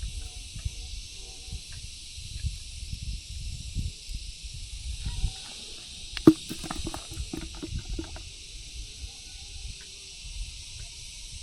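Outdoor ambience: a steady high hiss with uneven low rumbling, like wind on the microphone, and a cluster of sharp clicks and knocks about six seconds in.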